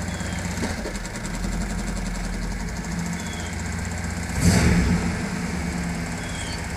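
Pontiac Firebird Trans Am's 305 small-block V8 idling steadily with a rattle of unknown cause, with a brief louder burst about four and a half seconds in.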